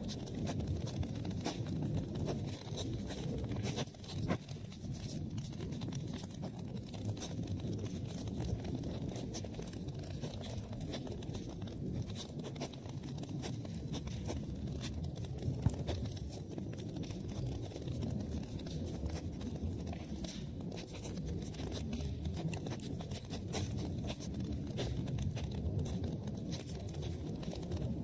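Wood fire burning in a fireplace, crackling with frequent small pops over a low rumble of flames, and one sharper pop about halfway through.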